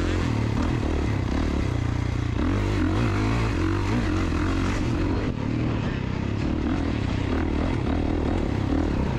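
KTM two-stroke dirt bike engine running, heard from the rider's helmet camera, its revs rising and falling as it is ridden.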